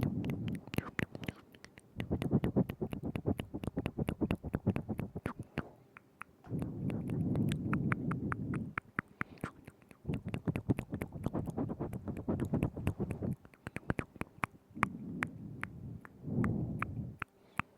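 Wet mouth sounds made very close to a binaural microphone: rapid clicks and smacks of the tongue and lips in bursts of a few seconds, with short pauses between and a low, muffled sound under each burst.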